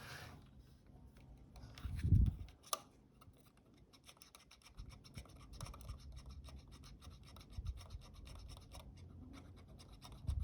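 Faint scratching and rubbing as sticky glue is scraped off the shutter flex cable inside a Fuji GA645 camera, with a dull bump about two seconds in and a sharp click just after it.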